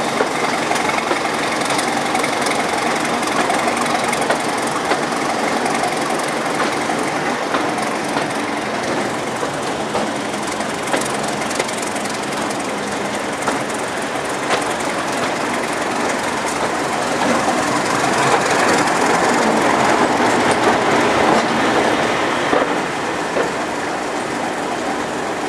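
Passenger train running along the line, heard from an open carriage window: the steady rumble of the coaches with wheels clicking over rail joints. It grows louder for a few seconds about three-quarters of the way through.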